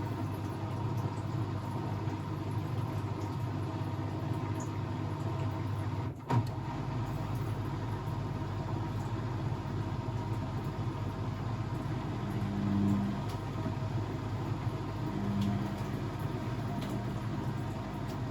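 Blomberg WAF 7442 SL washing machine running with a steady hum, and a single click about a third of the way in. From about two-thirds through, a low motor hum comes in short bursts of about a second, every few seconds, as the drum turns.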